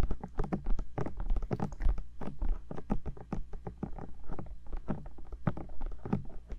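Bare fingertips tapping on the ears of a 3Dio binaural microphone: a quick, irregular run of close-up taps and soft thuds, several a second.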